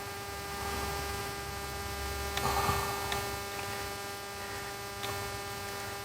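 Steady electrical hum made of several fixed tones, with a few faint, short clicks a few seconds in.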